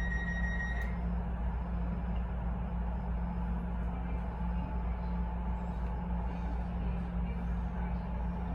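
A DLR train standing at a station gives off a steady low hum. A steady high electronic tone cuts off about a second in, and a faint whine shows up later.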